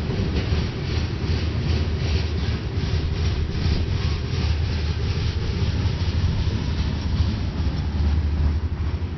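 Freight train of covered hopper cars rolling past: a steady low rumble with a quick clickety-clack of wheels, about four clicks a second, that grows weaker after about six seconds.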